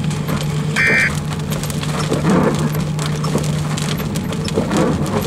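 Rain striking the vehicle's windshield and body in a severe thunderstorm: irregular taps over a steady low hum. A short electronic beep sounds about a second in.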